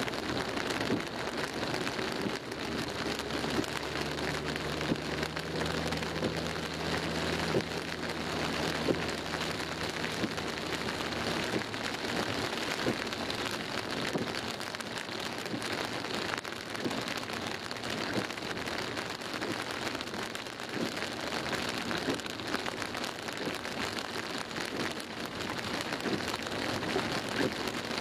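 Heavy rain falling on a car's roof and windscreen, heard from inside the car: a dense, steady patter of many small drop hits.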